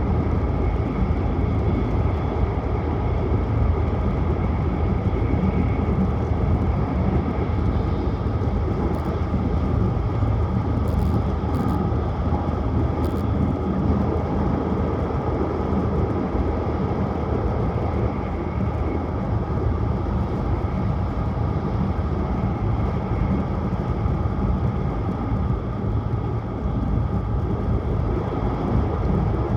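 Tohoku Shinkansen train running at speed, heard from inside the passenger car: a steady, unbroken rumble of running noise, strongest in the low end.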